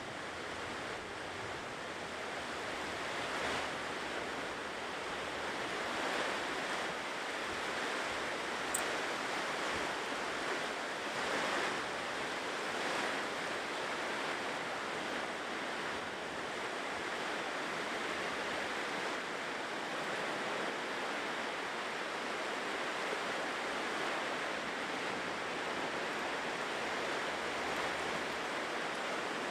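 Ocean surf washing onto a shore: a continuous hiss of breaking waves that swells and eases gently.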